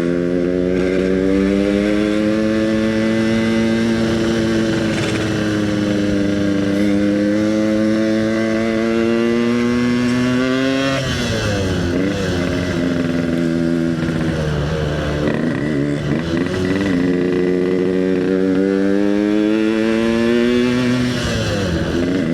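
Yamaha RX-King's two-stroke single-cylinder engine running under way. Its note climbs slowly for about ten seconds, falls away about eleven seconds in, dips again a few seconds later, then climbs once more and falls again near the end.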